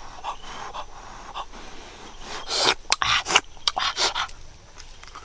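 Rough rubbing and scraping noises, quiet at first, then a quick, uneven run of short strokes in the second half.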